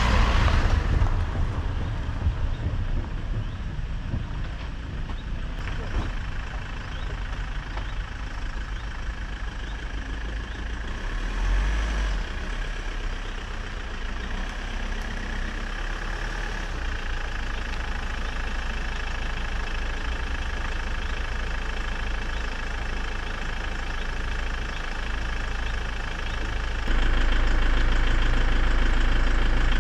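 Steady low rumble of a vehicle on the move, engine and road noise heard from inside, getting louder about 27 seconds in.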